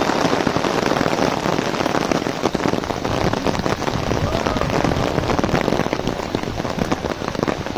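Heavy rain falling on an umbrella overhead: a dense, steady patter of many drops.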